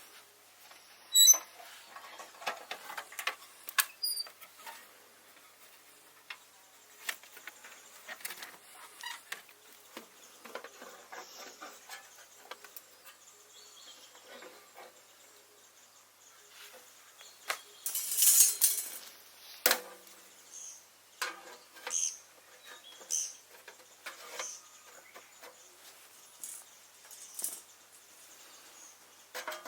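Scattered light clicks, knocks and rustles of things being handled, with a louder rustle about eighteen seconds in.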